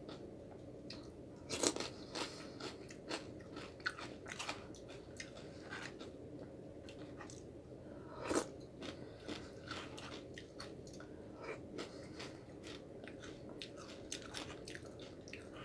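A person chewing and biting food close to the microphone: a steady run of short wet mouth clicks and crunches, with two louder crunches about two seconds and eight seconds in.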